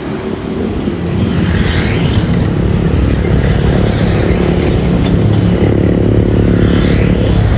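Jet airliner passing close, its engines a loud steady rumble that swells over the first second and then holds.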